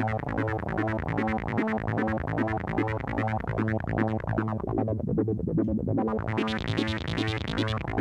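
Boss SY-200 synthesizer pedal in sequencer mode, triggered by an electric guitar's open A string: a fast pulsing synth pattern of repeating notes over a steady low A. The tone turns brighter for a stretch near the end.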